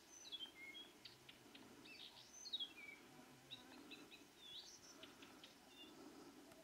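Faint birdsong: a scatter of short chirps and whistled notes, several of them sliding down in pitch.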